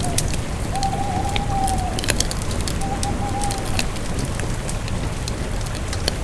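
Campfire burning: wood crackling and popping in irregular sharp snaps over a low steady rumble. A thin whistling tone sounds twice near the start, the first about a second long.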